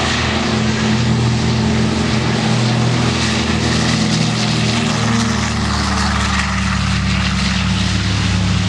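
Douglas DC-3C's twin radial piston engines and propellers droning during a low display pass. The engine note drops in pitch about halfway through as the aircraft goes by.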